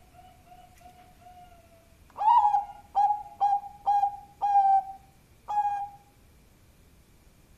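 Zebra dove (Bangkok perkutut) singing: a run of soft, quick cooing notes, then from about two seconds in six loud, clear coos, the first and fifth drawn out longer.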